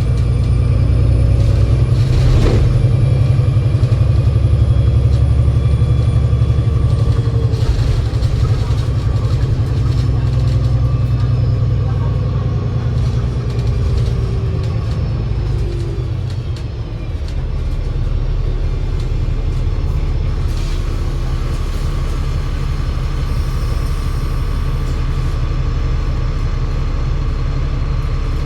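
Alexander Dennis Enviro500 MMC double-decker bus driving, with a steady low engine rumble and faint whining tones from its Voith 864.5 automatic gearbox that rise and fall as it changes speed. The gearbox's usual aeroplane-like whine is subdued. The rumble dips briefly about halfway through.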